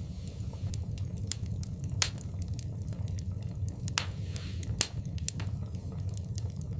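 Wood fire in a fireplace crackling, with scattered sharp pops over a steady low rumble. The loudest pops come about two, four and five seconds in, with a short hiss just after the one at four seconds.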